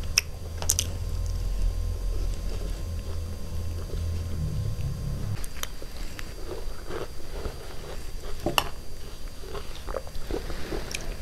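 Close-miked chewing and biting: a mouthful of chicken biryani, then spoonfuls of creamy fruit salad. A low rumble runs under the first five seconds or so, with a few sharp clicks scattered through.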